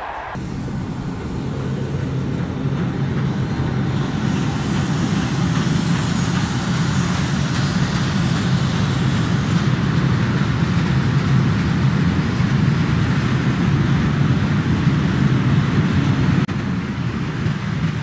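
Freight train passing close by: a locomotive's steady low hum with the rumble of its covered wagons rolling on the rails, growing louder over the first few seconds and then holding, dropping a little near the end.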